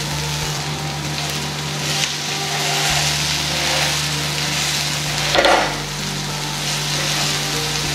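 Idli rounds and onion, tomato and capsicum masala sizzling on a hot nonstick tawa, with a wooden spatula pressing and shifting them. A brief louder sound stands out about five and a half seconds in.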